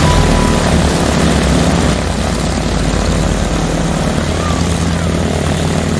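Propeller airplane engine sound effect, a steady drone.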